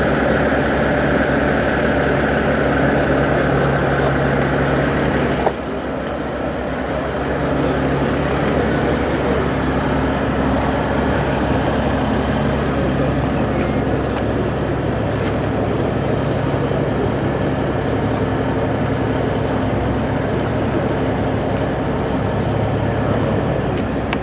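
Large diesel truck engine idling steadily. About five seconds in there is a sharp click, and the sound is briefly quieter before the steady running resumes.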